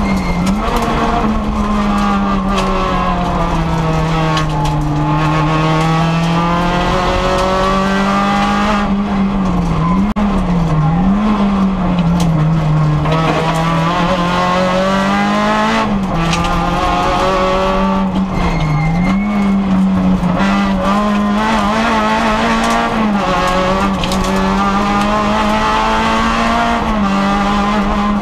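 Rally car's engine heard from inside the cabin, driven hard on a stage, its pitch falling and rising again and again with throttle and gear changes: a long dip about five seconds in and quick up-and-down swings around ten and nineteen seconds.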